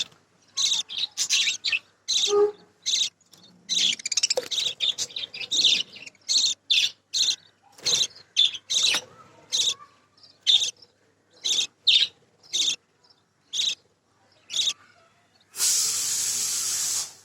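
Budgies chirping in quick, irregular short calls. Near the end comes a steady hiss lasting about a second and a half.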